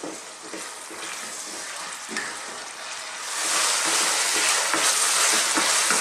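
Beef strips, chopped onions and garlic-ginger paste sizzling in a pan over a lively heat while a wooden spoon stirs and scrapes them around. The sizzle grows louder a little after three seconds in.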